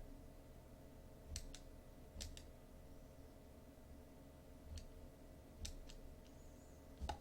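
Computer mouse clicking: a few scattered single and double clicks over a faint steady hum.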